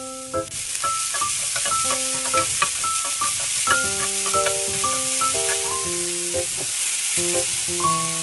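Julienned carrots sizzling in hot oil in a frying pan as they are stirred with chopsticks. The sizzle grows a little louder about half a second in.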